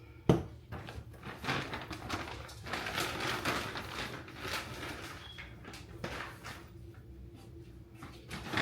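Groceries being unpacked and handled: a sharp knock about a third of a second in, then irregular rustling and knocking of packaging.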